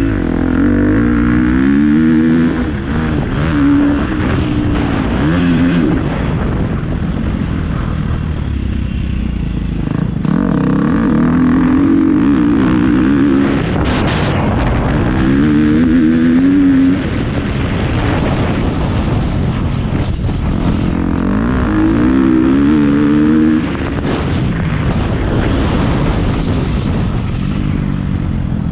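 Motocross dirt bike engine being ridden hard, its pitch climbing through the gears and dropping off again and again as the rider accelerates and backs off.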